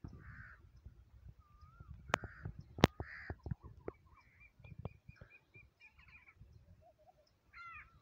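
Birds calling outdoors: harsh calls repeat every second or so, and a quick run of short high chirps comes in the middle. Two sharp clicks a little over two and nearly three seconds in are the loudest sounds, over a low wind-like rumble.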